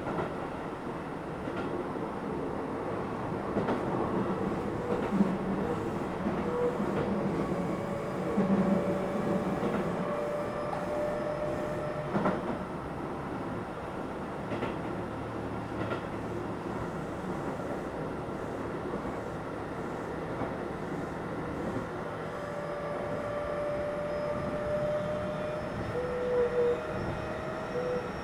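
Keio 7000 series electric train running, a steady rumble of wheels on rail with a few sharp rail-joint clicks around the middle. A thin motor whine slowly rises in pitch, most clearly toward the end.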